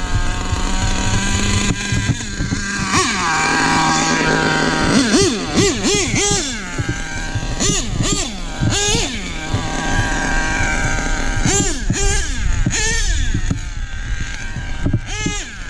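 HPI Nitro Star .25 two-stroke nitro engine of an RC monster truck running hard, held at a steady high speed for the first few seconds, then revved up and down in quick throttle blips about once a second.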